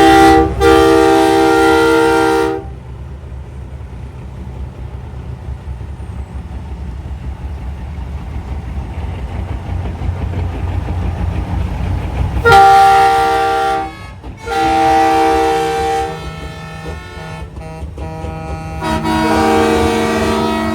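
Semi-truck air horns blowing several long blasts, each a chord of several tones held for one to two seconds, over the steady low rumble of diesel engines.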